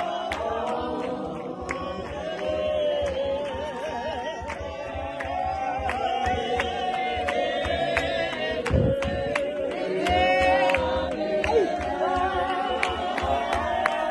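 A group of voices singing together, with sharp, regularly spaced beats underneath.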